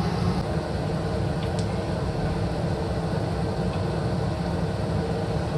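Steady low rumble of a running vehicle, without a break.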